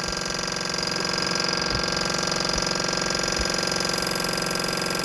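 Small live-steam model engine running steadily with a fast, even mechanical rattle.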